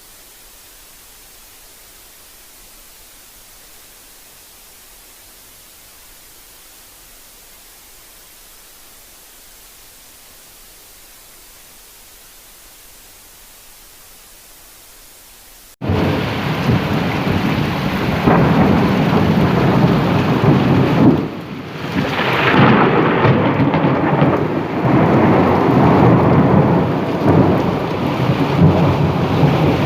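Heavy rain falling, a loud dense rushing with a low rumble underneath. It cuts in suddenly about halfway through, after a faint steady hiss.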